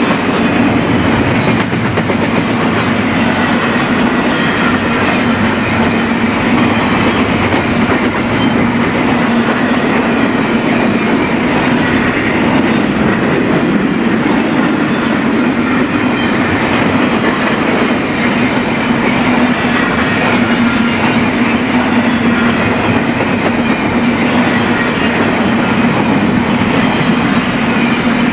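BNSF intermodal freight train passing close by: a steady, loud rumble of cars rolling over the rails.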